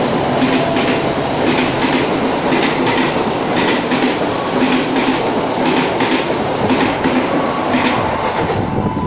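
Passenger train coaches running past at speed close by: a steady rail rumble with wheels clacking over rail joints, often in quick pairs, about once a second. The clacking ends near the end as the last coach goes by.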